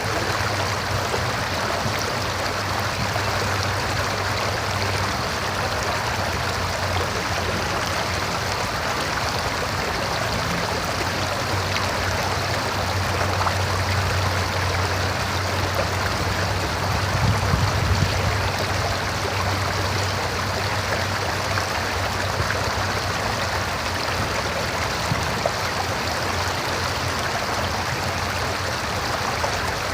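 River flowing, a steady continuous rush of water, swelling briefly a little past halfway.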